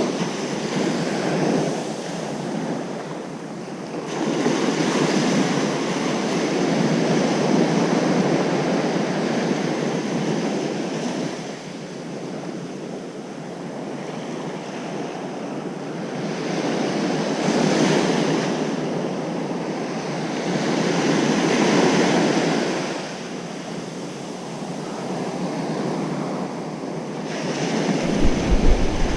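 Ocean waves breaking on a beach, the surf swelling and ebbing in slow surges every few seconds, with wind on the microphone.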